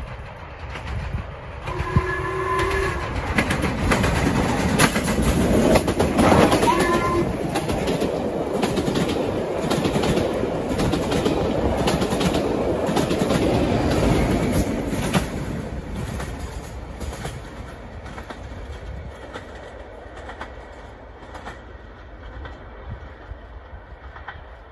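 A train passing at speed, its horn sounding briefly about two seconds in, then its wheels clattering rhythmically over the rail joints as it goes by and fades away.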